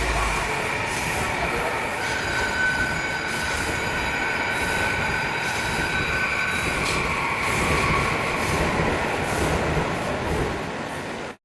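Train running on rails: a steady rushing noise with a high whine in the middle, cutting off suddenly near the end.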